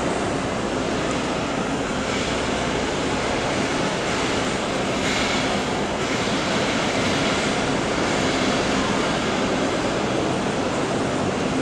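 Jet airliner noise: a steady, even rushing hiss with a faint hum beneath it.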